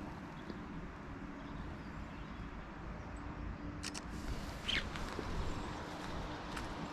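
Outdoor lakeside ambience: a steady low rumble with a faint hum. A short bird call falls in pitch about two-thirds of the way through. Sharp clicks come about four seconds in and again near the end.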